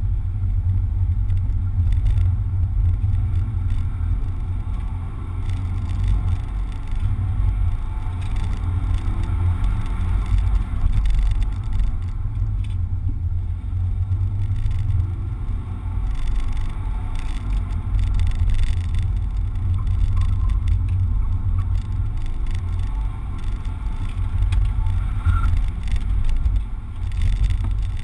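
Toyota Corolla's four-cylinder engine heard from inside the cabin, revving up and down as the car is driven hard through an autocross course, over a heavy low rumble of road and wind noise.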